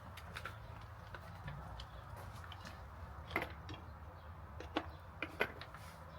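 Scattered light clicks and taps, with a few sharper knocks around the middle and near the end, over a low steady hum.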